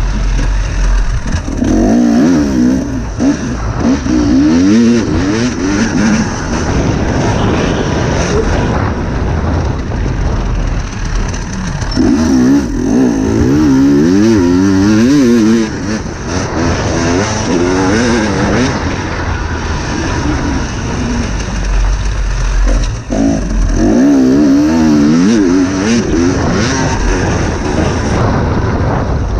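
Dirt bike engine revving hard and easing off again and again as the motorcycle is ridden around a motocross track, with the pitch climbing and dropping in quick waves.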